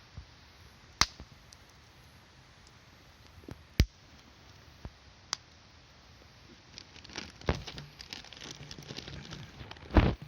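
Wood campfire crackling: single sharp pops a second or two apart, then denser crackling from about seven seconds in, ending with a couple of loud pops.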